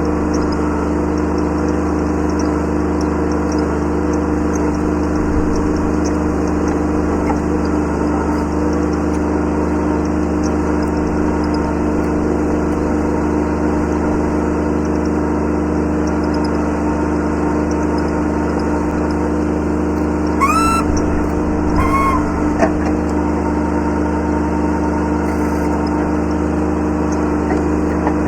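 Kubota B7100 tractor's three-cylinder diesel engine running steadily. Two brief rising squeals come about 20 and 22 seconds in.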